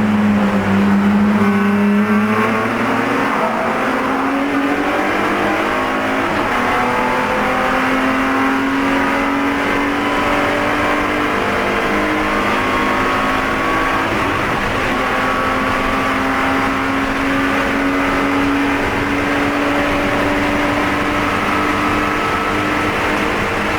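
BMW Spec E46 race car's straight-six engine running hard, recorded on board. Its pitch sits low right at the start and climbs over the first few seconds as the car accelerates, then holds high with slow small rises and falls.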